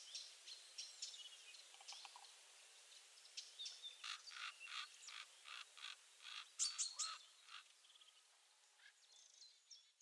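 Faint birdsong: several birds chirping, with an even run of rasping notes about three a second near the middle.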